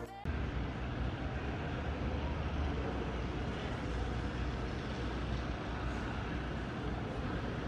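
Steady background noise of a large railway station concourse or platform, with a constant low hum.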